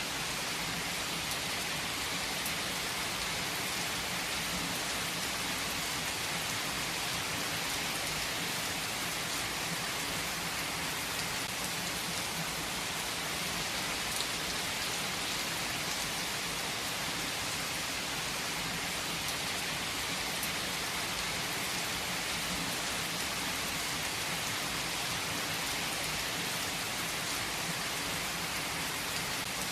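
Heavy rain falling steadily, a dense even hiss with scattered individual drops pattering on surfaces.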